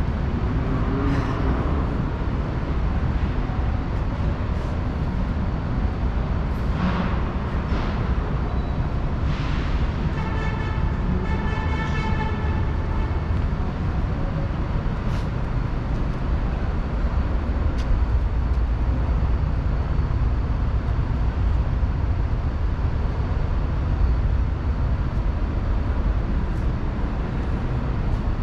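City street ambience: a steady low rumble of traffic, with a few scattered knocks and a short pitched tone with overtones about ten seconds in.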